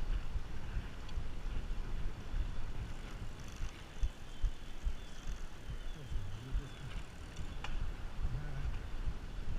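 Wind buffeting the microphone during a bicycle ride: a gusty low rumble that rises and falls, with a single faint tick about three-quarters of the way through.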